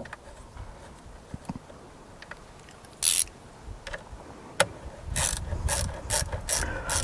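Ratchet wrench tightening a battery cable terminal bolt: a few faint clicks, one short burst about three seconds in, then a run of quick ratcheting strokes, about two to three a second, from about five seconds on.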